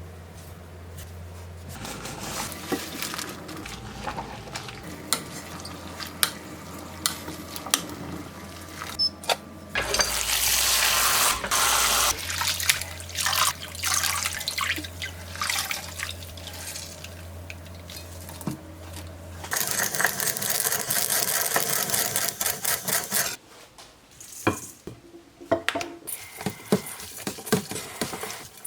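Kitchen prep sounds: small knocks and clatter of utensils and dishes, with a tap running into a sink twice, briefly about ten seconds in and again for a few seconds past the middle.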